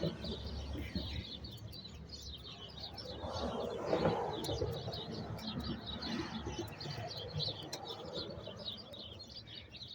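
Small birds chirping over and over in the background, with a low steady rumble underneath. A brief scraping, rustling noise swells up about four seconds in.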